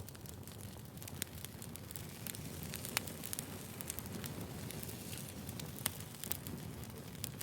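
Firewood burning: a steady low rustle of flames with sharp crackles and pops scattered through, the loudest snaps about one, three and six seconds in.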